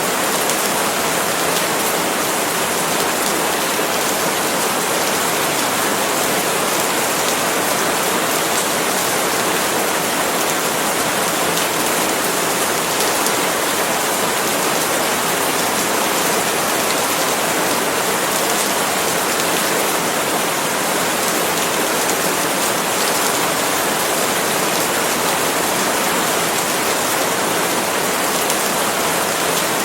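Steady rain falling on palm leaves: an even, dense hiss that holds constant throughout, with no thunder or separate drops standing out.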